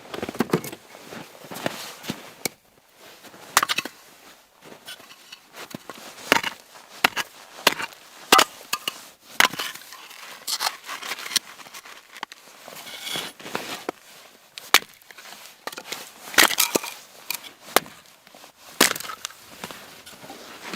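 A run of irregular sharp knocks and crunches, at times several a second with brief pauses between, the loudest near the middle and about three-quarters of the way through.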